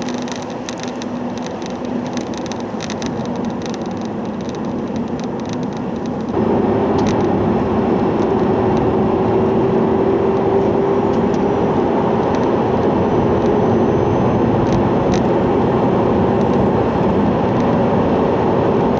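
Loud hum inside a moving Nissan Leaf electric car, heard over road noise; about six seconds in it gets suddenly louder, with a steady drone. The owner suspects a worn wheel hub bearing.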